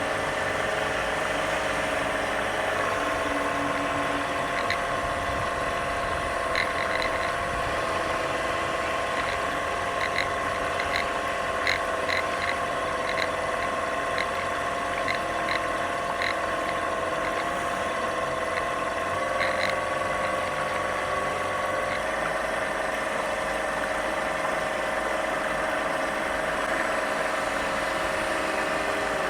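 A model lifeboat's electronic engine sound unit giving a steady engine note that jumps in pitch about three seconds in and twice more near two-thirds of the way through. The erratic note is the sign of the failing speed controller that the unit is connected to.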